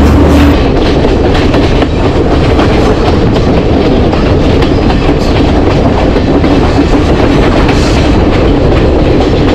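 Passenger train running at speed, heard from an open carriage doorway, its wheels clacking over the rail joints. A loud low rumble drops away about half a second in as the train comes out of a tunnel.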